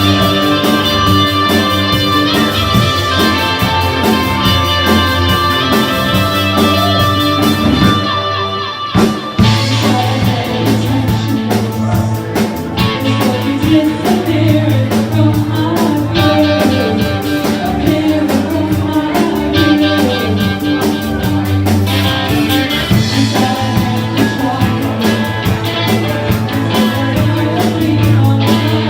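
Live band playing an upbeat rock cover with singing. About eight seconds in the music briefly drops out, then comes back in about a second later with a heavy bass line.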